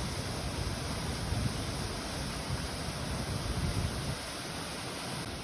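Rushing water of Bopath Falls, a roughly 30-metre waterfall, as a steady, even roar with a deep low rumble, easing slightly after about four seconds.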